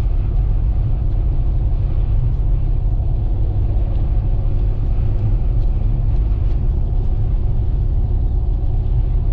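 Steady low rumble inside a moving vehicle's cabin: engine, tyre and wind noise while driving on a highway in strong winds.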